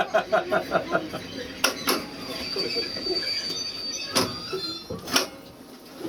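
Sounds in a standing locomotive cab: a rapid pulsing tone at about eight beats a second at the start, then several sharp knocks, with a faint steady high whistle in the middle.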